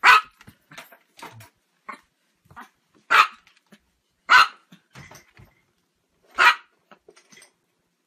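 Chihuahua barking, four short barks: one at the start, a pair about a second apart near the middle, and one more a couple of seconds later, with faint small sounds between.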